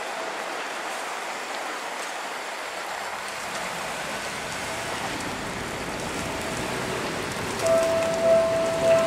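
Seibu 20000-series electric train running on the tracks, heard as an even, steady hiss with a low rumble that grows in. About seven and a half seconds in, a railway level-crossing warning bell starts ringing, a repeated tone that pulses a little under twice a second.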